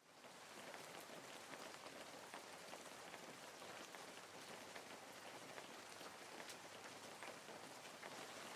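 Steady rain falling, a soft even hiss dotted with many small ticks of individual drops.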